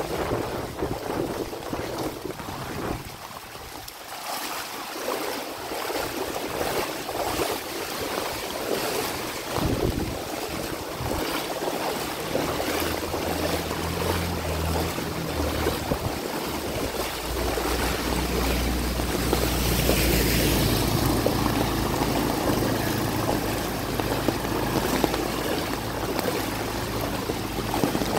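Rain falling on a flooded street, a steady hiss of water. From about halfway a motor vehicle's engine comes in low and grows louder, loudest about two-thirds of the way through as it passes with a rush of water.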